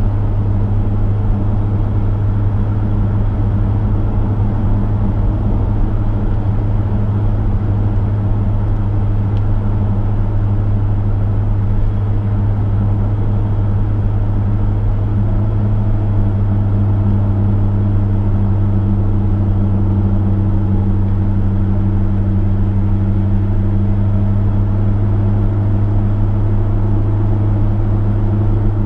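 Chevrolet V8 engine running at a steady cruise, a loud low drone under tyre and road noise.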